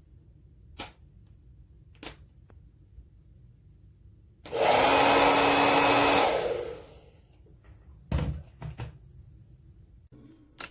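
BaBylissPRO Nano Titanium Portofino 2000-watt hair dryer switched on for under two seconds, blowing with a steady rush of air and a hum, then switched off and winding down. A few sharp clicks come before and after.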